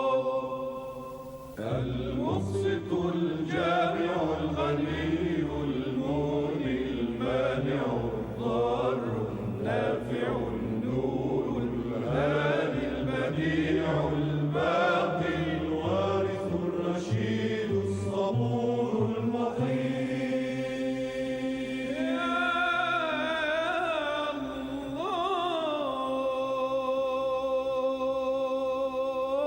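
Arabic religious chant with musical accompaniment: a long held note, then a busy passage of moving melody with rhythmic strokes, an ornamented wavering vocal run near the end, and another long held note.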